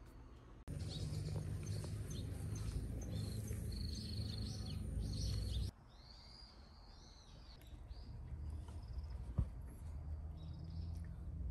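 Small birds chirping over a steady low background rumble. About halfway through, the rumble drops away and the chirping goes on more faintly, with one short knock a couple of seconds before the end.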